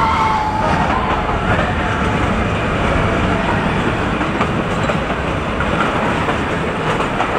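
Ooty toy train of the Nilgiri Mountain Railway running, with a steady rumble and clatter of coach wheels on the rails, heard from a carriage window.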